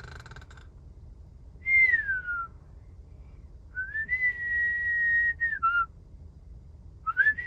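A person whistling: a short note sliding down in pitch, then a long held note that dips at its end, and a new note starting near the end.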